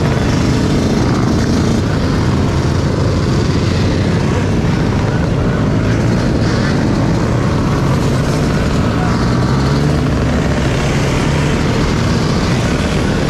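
An off-road vehicle running steadily at speed, heard as a loud, even rumbling noise with no distinct revs or gear changes.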